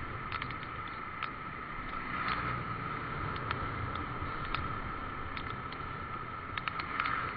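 Steady motorcycle riding noise in the rain, a continuous rush that swells and eases a few times, with scattered sharp ticks throughout.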